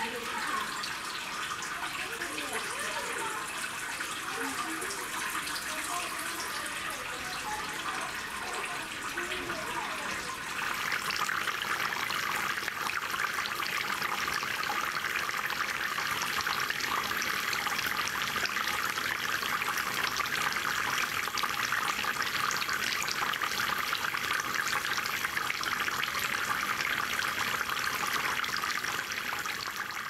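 Water from a homemade rain-curtain fountain falling in thin streams from its overhead pipe and splashing steadily into the stone-filled basin below. The splashing gets louder about ten seconds in.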